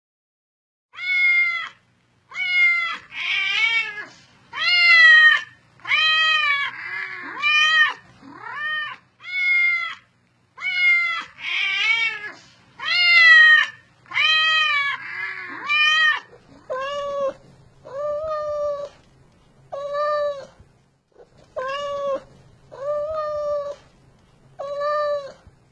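A cat meowing over and over, roughly one meow a second, each meow rising then falling in pitch. In the first half a lower-pitched meow overlaps now and then; from about two-thirds of the way in the meows are lower and come at an even pace.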